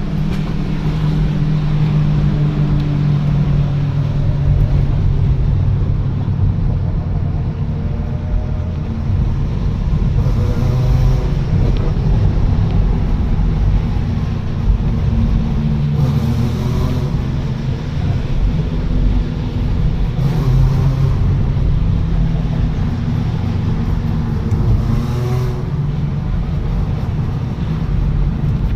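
Super 1600 rally car engines running at low revs, a steady rumble with four short revs a few seconds apart and one sharp pop about halfway through.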